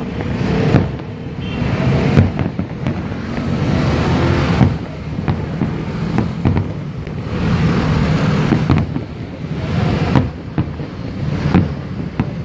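Aerial fireworks barrage: shells bursting in rapid succession, many sharp bangs and crackles over a continuous low rumble that swells and eases in waves.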